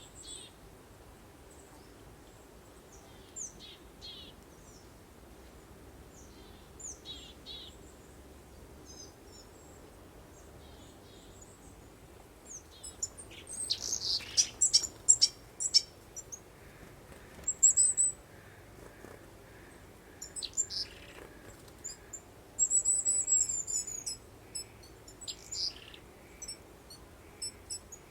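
Songbirds chirping and calling in short high notes over a faint steady hiss. The calls are sparse at first and grow busier from about halfway, with a rapid high trill near the end.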